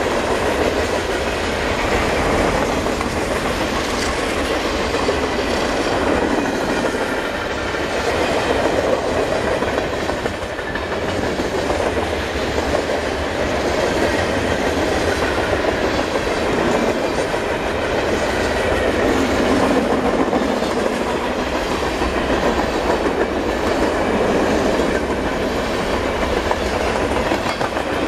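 CSX mixed freight train's cars rolling steadily past, a continuous rumble of steel wheels on rail with wheels clicking over the rail joints.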